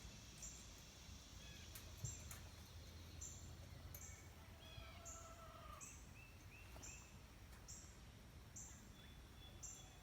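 Faint outdoor ambience: a high chirp repeating a little more than once a second, a few short bird calls, and a low rumble.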